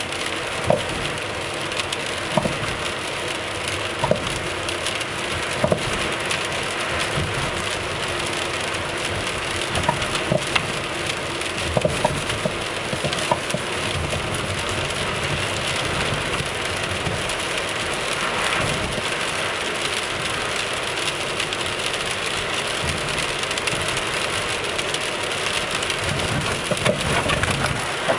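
RS-R Best-i coilover suspension on a 10-series Toyota Alphard Hybrid making irregular sharp clicks and knocks over steady road noise while the car drives. The knocking comes from a loose upper top nut on the coilover.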